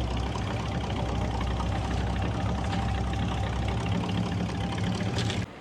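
A car engine idling, a steady low rumble that cuts off suddenly near the end.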